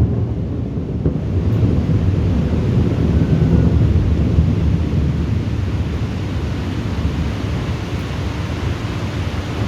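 Thunder rumbling low and rolling, swelling about three seconds in and then slowly fading.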